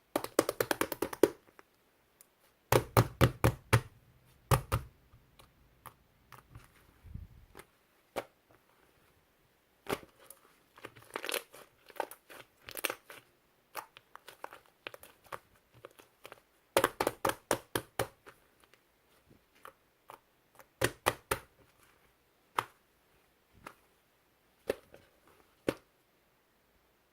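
Slime being squeezed and pressed by hand, giving groups of quick sharp clicks and crackling pops with short pauses between them.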